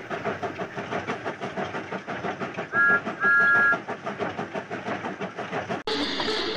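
Recorded steam locomotive sound effect: steady rapid chuffing, with two two-note steam whistle blasts a little before the middle, a short one then a longer one. Near the end the sound changes abruptly to a different background.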